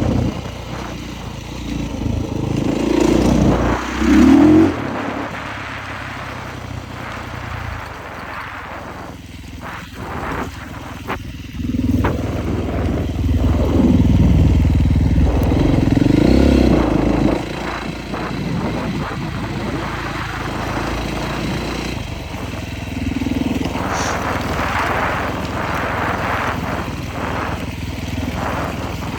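Husqvarna 450cc four-stroke single-cylinder dirt bike engine being ridden, revving up and down as the throttle opens and closes, with louder bursts about three seconds in and again for several seconds in the middle.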